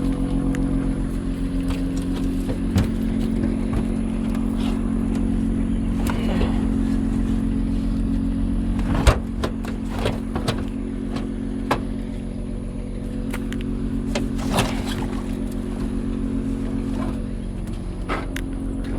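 Vehicle engine idling steadily, with a handful of sharp knocks and clicks over it, the loudest about halfway through.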